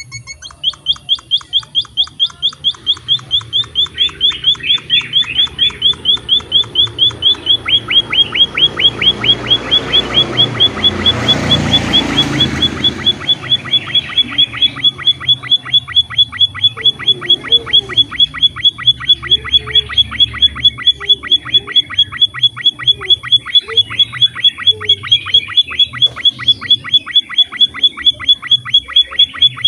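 Emprit (munia) calling a long, rapid series of short, high, downward-sliding notes, about four a second, without a break. A rushing noise swells and fades about halfway through.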